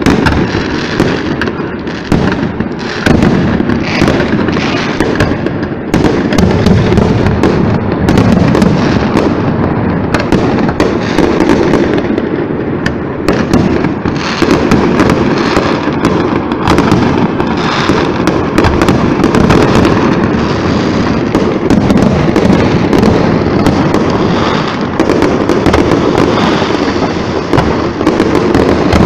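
Fireworks display: a loud, continuous barrage of aerial shell bursts, the bangs coming thick and overlapping with no pause.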